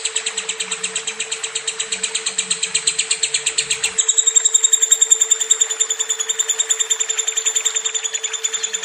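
Lovebird singing a long, unbroken rapid trill of about ten notes a second, the extended 'tembak durasi' chatter that keepers use as a filler song for training birds. The trill shifts a little higher and louder about four seconds in, over a steady low hum.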